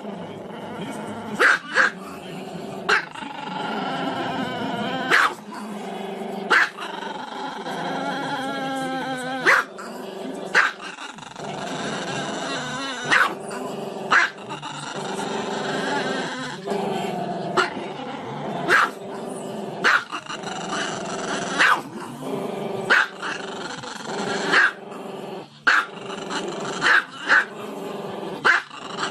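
Small dog barking in short, sharp barks about every one to two seconds, with a drawn-out wavering vocal sound between them.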